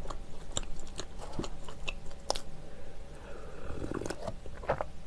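Close-miked chewing of soft bread: scattered wet mouth clicks and smacks, then milk drunk in gulps from a carton near the end.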